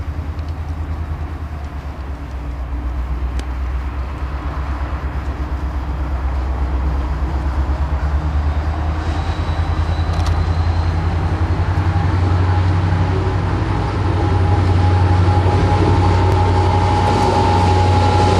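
Diesel locomotive engine running as the train draws closer, growing steadily louder, with a faint high steady tone joining in the last few seconds.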